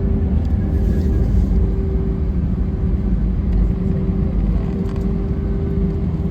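Airliner cabin noise after landing: a steady rumble of engines and airframe with a steady hum, easing slightly as the aircraft slows.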